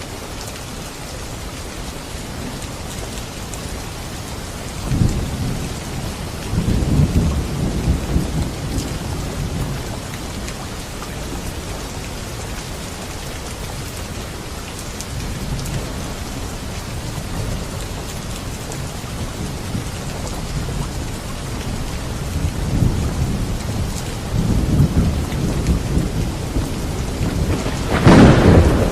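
Steady heavy rain falling, with rolls of thunder rumbling low: a first roll about five seconds in, more through the second half, and a sharper, louder clap near the end.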